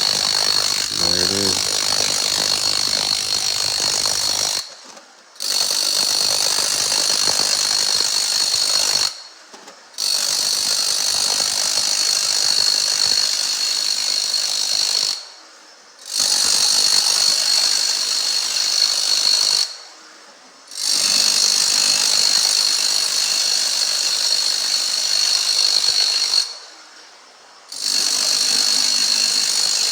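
Power tool stripping flooring off a concrete slab, running in long stretches with a steady high whine and stopping briefly five times, each pause about a second.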